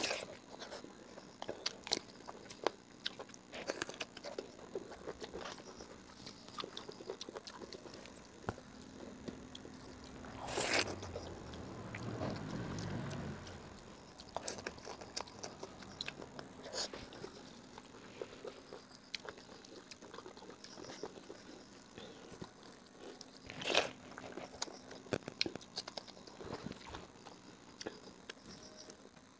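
A person chewing a mouthful of rice and raw green leaves, with crunching and many small wet mouth clicks and smacks, and a louder crunch about ten seconds in and again near the end.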